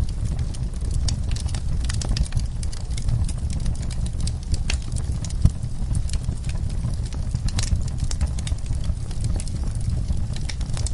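Wood fire crackling in a fireplace: irregular snaps and pops over a steady low rumble, with one sharper pop about halfway through.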